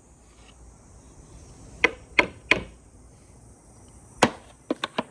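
Marbles clacking as they roll and drop along a marble run: sharp separate clicks, three in quick succession about a third of a second apart, then one more and a fast cluster of smaller clicks near the end.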